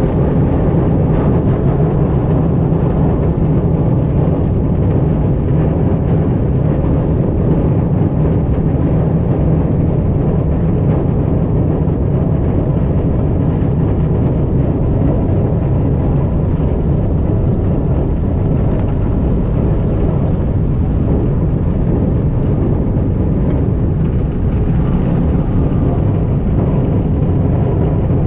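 Light aircraft's piston engine running steadily, heard from inside the cockpit.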